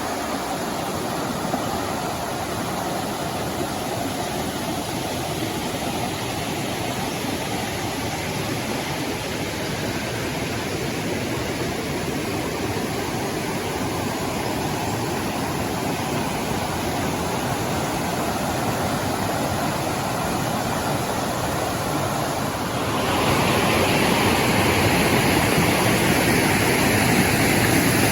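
Steady rush of falling water from a rainforest waterfall, a continuous even roar that becomes louder and brighter near the end.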